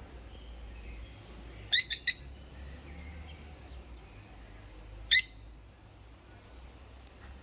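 Rosy-faced lovebird giving loud, sharp, high chirps: a quick run of three about two seconds in, then a single chirp a few seconds later.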